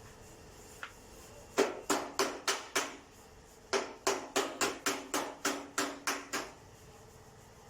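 Hammer striking in two quick runs of blows, about five and then about ten, roughly four a second.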